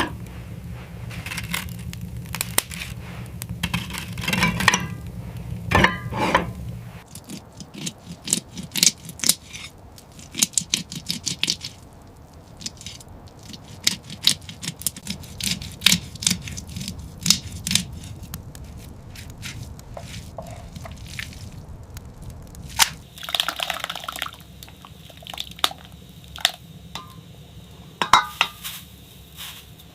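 Clinking of cups and utensils with scraping and crunching, a run of quick clicks and knocks while coffee is being prepared. A low steady hum stops about seven seconds in.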